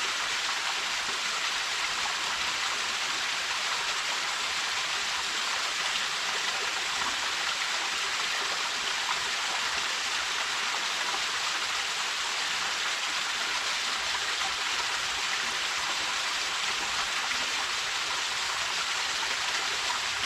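Small waterfall splashing and pouring into a mountain stream: a steady, even hiss of falling water.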